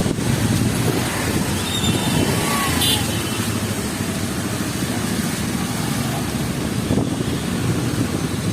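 City street ambience in heavy rain: a steady hiss of rain with motor traffic passing.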